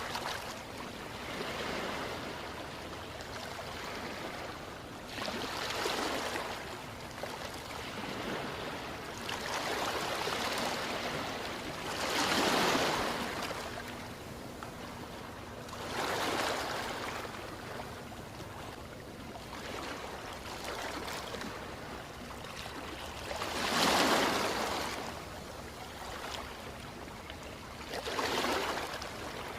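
Ocean waves breaking and washing in, a steady wash of surf that swells into a louder surge every few seconds, the biggest about twelve seconds in and again near twenty-four seconds.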